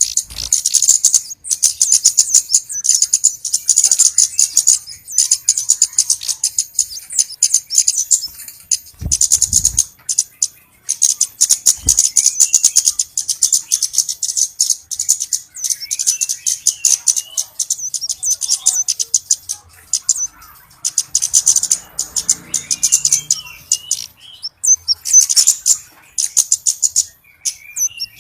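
Flowerpecker lure call: long runs of very rapid, high-pitched ticking chips, broken by short pauses, with some lower twittering notes in between.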